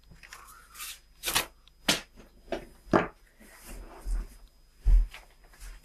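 Hands handling a folded paper airplane on a tabletop: stiff paper rustling and crinkling, with a series of sharp taps about every half second and a heavier dull thump about five seconds in, the loudest sound.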